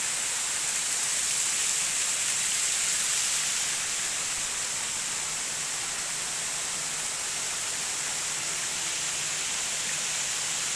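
Steady rush of water, a continuous even hiss with no breaks or surges.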